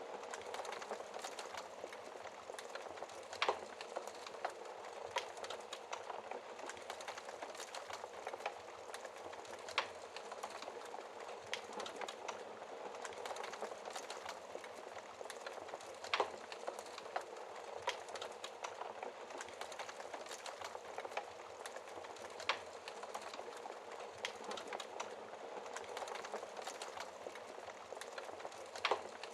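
Wood fire crackling in a fireplace: a steady hiss and rustle of flames with irregular sharp pops and snaps, a few of them louder than the rest.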